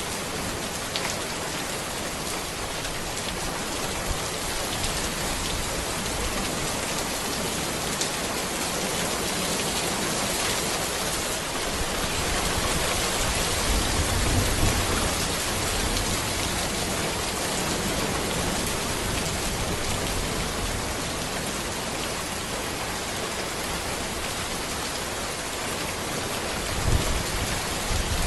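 Steady rain falling on a road and trees, an even hiss, with a low rumble swelling about halfway through and a shorter one near the end.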